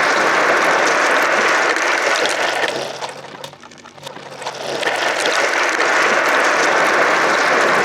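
Many marbles rolling and clattering together down a marble-run track, a dense rattle of small clicks. It fades out briefly a few seconds in, then comes back at full level.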